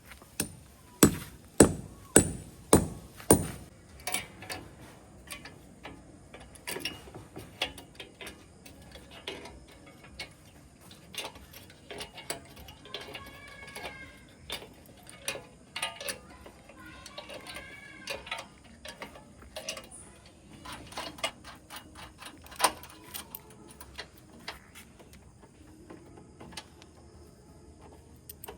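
Hand-tool knocks and clicks from installation work: five hard knocks about half a second apart, then a long run of lighter taps and clicks, with two short squeaky sounds in the middle.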